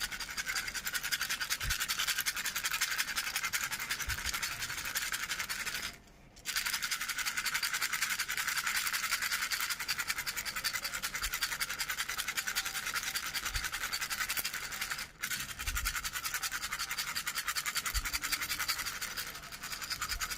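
Owl rattle toy shaken rapidly and continuously, a dense fast rattle of beads. It pauses for about half a second after six seconds and breaks again briefly around fifteen seconds.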